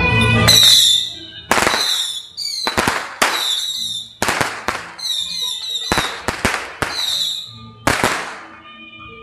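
Firecrackers going off in a loose string of about a dozen sharp, loud bangs over eight seconds, each ringing out briefly. A high wavering whistle-like tone sounds between the bangs.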